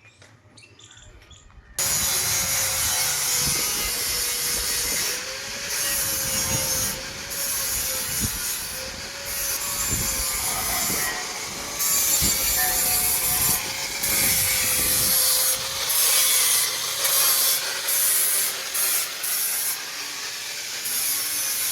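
A power tool cutting or grinding steel starts about two seconds in and runs continuously: a harsh, loud grinding hiss over a wavering motor whine, briefly easing off now and then.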